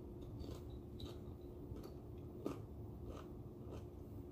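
Close-miked chewing of a tortilla chip dipped in queso, mouth closed: soft, irregular crunches and mouth clicks over a low steady hum, the loudest about two and a half seconds in.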